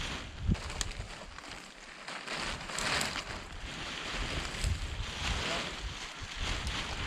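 Wind gusting on the microphone, with low rumbles and a rushing hiss that swells and fades, plus a couple of brief clicks near the start.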